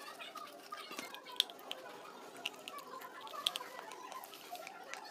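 Close-up chewing of King Gold brand slate pencil: crisp, sharp crunches and clicks now and then as the teeth break and grind the pieces, with wet mouth noise between them.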